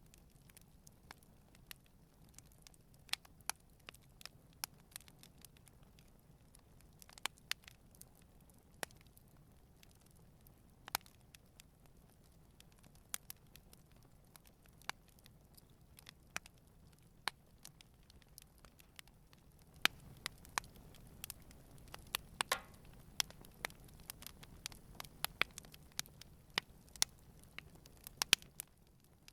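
Wood campfire burning, with scattered sharp crackles and pops over a faint low rush of flame. The crackling gets busier about two-thirds of the way through.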